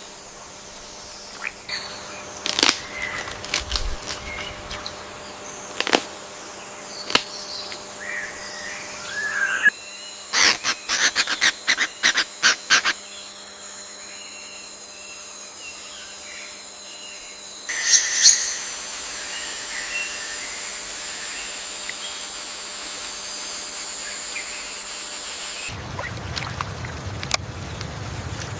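Rainforest ambience: assorted bird calls and chirps over a steady high insect drone, with a quick run of about ten sharp clicking calls around ten seconds in and a louder call near the middle. About 26 seconds in, a low rushing noise comes in.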